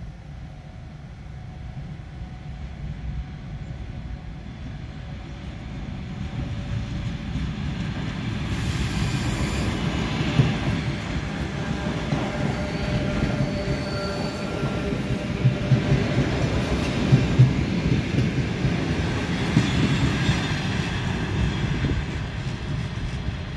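An electric multiple-unit train approaches and passes close by, growing louder over the first ten seconds. Its wheels clatter over rail joints in a run of sharp knocks, with some thin wheel squeal.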